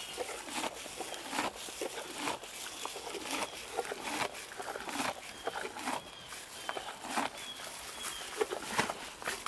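A grazing horse tearing off grass and chewing it, an irregular run of crisp rips and crunches.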